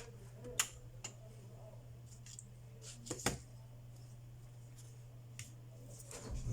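Scattered small clicks and taps of tools and phone parts being handled during a phone screen repair, the two loudest close together just past three seconds in, over a steady low hum.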